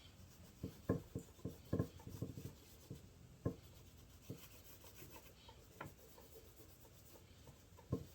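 Handling and cleaning of a Peerless 206 transaxle case by hand: irregular knocks as it is moved and set down, with light rubbing and scraping between them.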